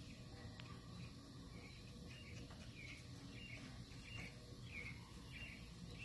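Faint bird chirping: a run of short, repeated chirps, about two a second, over a low steady background rumble.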